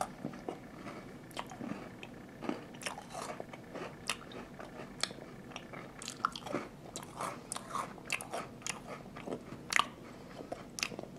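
A person chewing a mouthful of Walkers pure butter shortbread, with quiet, irregular crunches of the crumbly biscuit, a few a second, between mouth sounds.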